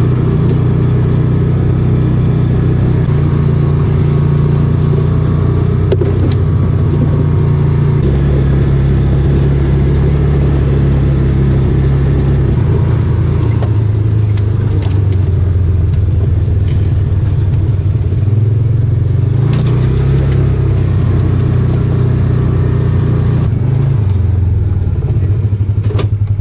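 Engine of a Polaris off-road vehicle running steadily while being driven, its pitch shifting now and then with the throttle.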